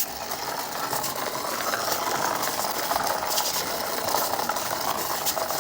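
Small toy mechanism rattling and clicking continuously, a dense run of rapid ratchet-like clicks.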